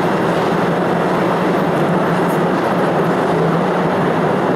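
Cave tourist train running steadily through the tunnels, heard from a seat in its open carriage: a constant rumble of the moving train with a low, even hum underneath.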